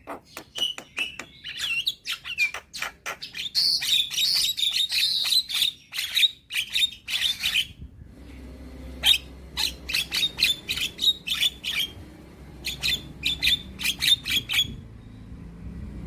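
Young Javan myna singing a fast, chattering song of harsh clicks and short chirps in quick runs, with brief pauses between bouts. A low steady hum sits underneath from about halfway.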